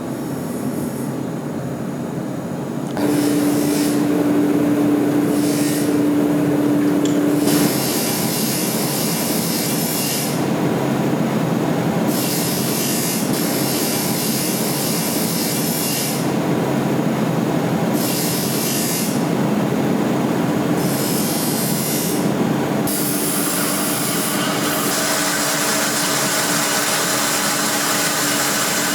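Electric power tool grinding steel: a steady motor hum under a rough rasping noise that comes and goes every second or two as the work is pressed and lifted.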